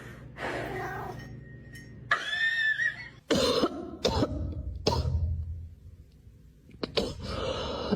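A few short, sharp hacking coughs, the first about three seconds in.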